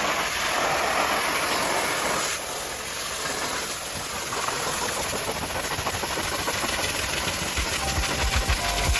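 High-pressure washer spray blasting water onto a muddy Jeep: a steady hiss that eases slightly a couple of seconds in, with a few low thuds near the end.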